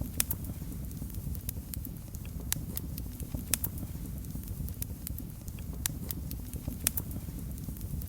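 Wood fire burning in a fireplace: a steady low rumble of the flames with sharp, irregular crackles and pops, several a second at times.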